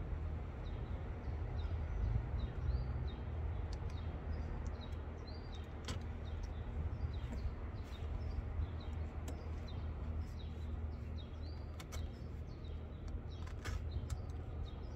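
Small birds chirping over and over, short falling chirps, above a steady low hum. A few sharp clicks and rustles come from hands working in an old upholstered chair's stuffing.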